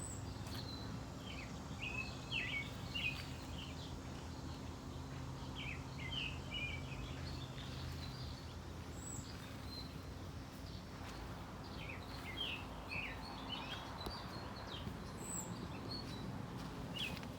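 Outdoor ambience of several small birds chirping and singing in short bursts, over a steady low hum.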